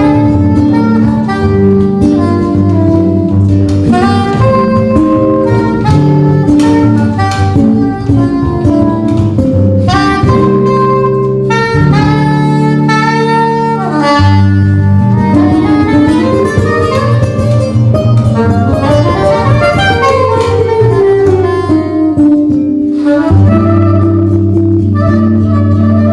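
A trio playing instrumental jazz live: a held melody line that slides in pitch in places, over a low bass line.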